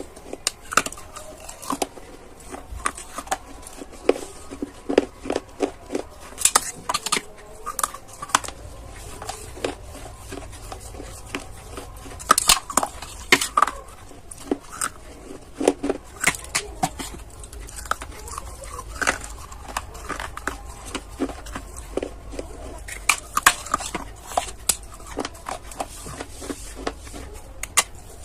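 Close-miked crunching and chewing of dried clay: a rapid, irregular run of sharp cracks and crackles as pieces are bitten and ground between the teeth.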